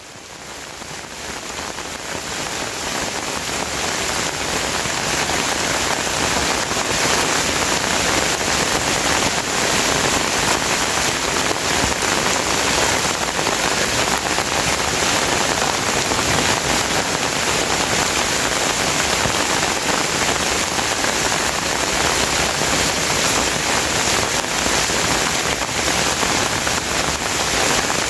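Steady rain falling, a dense even patter that fades in over the first few seconds and then holds constant.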